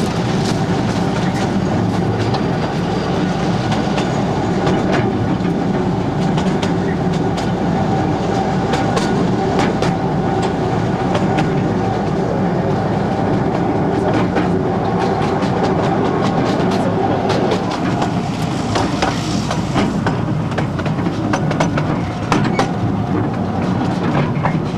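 Narrow-gauge tourist train running along its track, heard from an open carriage: a steady rumble with wheels clicking and clattering over the rails throughout.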